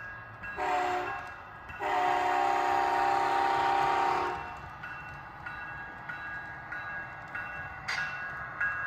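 HO scale model locomotive's sound decoder sounding its horn through the model's small speaker: a short blast, then a longer, louder blast of about two and a half seconds. A quieter repeating tone starts near the end.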